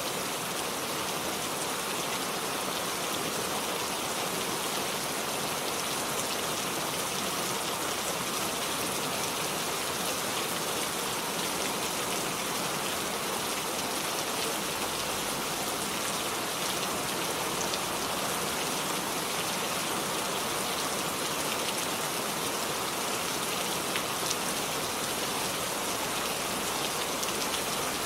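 Rain falling steadily: an even hiss with small ticks of separate drops, no change in strength.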